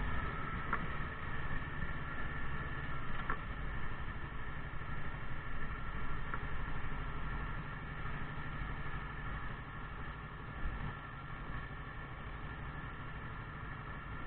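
Motorcycle engine running steadily, a low rumble that eases slightly quieter over the stretch.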